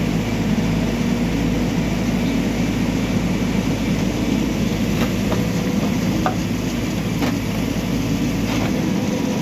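Backhoe loader's diesel engine running steadily, with a few short metallic knocks in the second half, typical of the machine's arm or bucket at work.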